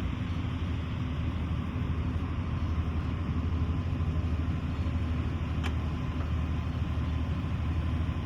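Steady low rumble of engines idling, with a steady hum and one sharp click a little over halfway through.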